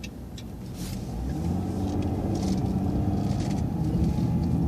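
City transit bus engine heard from on board, running low, then growing louder from about a second in as the bus pulls away and speeds up. A few faint ticks sound early on.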